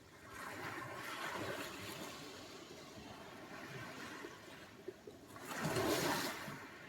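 Sea surf: waves washing onto the shore. One wave rushes in just after the start and slowly fades, and a louder one breaks about five and a half seconds in.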